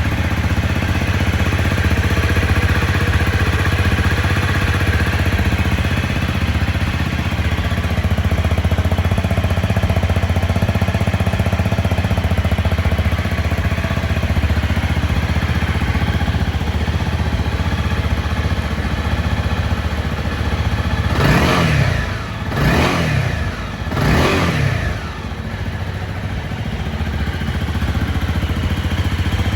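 Honda CRF250 Rally's single-cylinder engine idling steadily through an SP Tadao Power Box aftermarket exhaust, then revved in three quick throttle blips about two-thirds of the way in.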